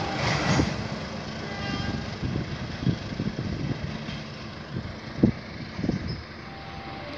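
Passenger train running away into the distance, its rumble fading steadily, with a few irregular low knocks, the sharpest about five seconds in.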